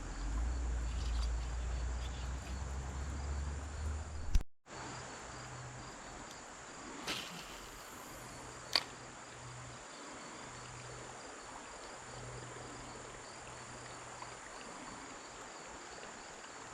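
Insects chirping steadily in a fine, even pulse. A low rumble fills the first four seconds or so and stops abruptly, and a single sharp click comes about nine seconds in.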